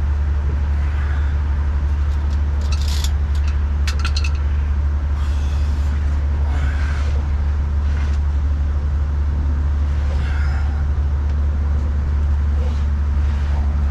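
Steady low drone of an idling diesel truck engine, with a few sharp clicks about three to four seconds in and brief hisses.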